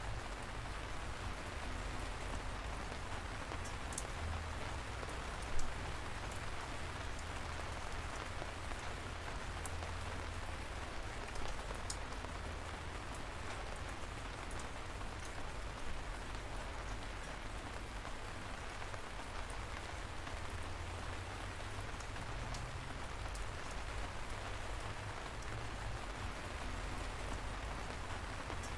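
Light, steady rain falling, a soft even hiss with single drops pattering close by and one louder drop about five and a half seconds in.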